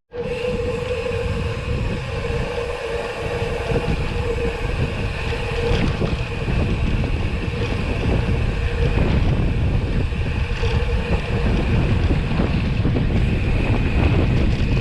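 Wind buffeting the microphone on a moving ride, over a steady humming drone.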